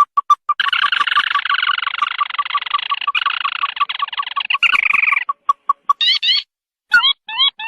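Ruddy-breasted crake calls: a run of short clipped notes at about five a second, joined about half a second in by a dense, rapid chattering trill that lasts some four and a half seconds. A few more clipped notes and short bending squawks follow near the end.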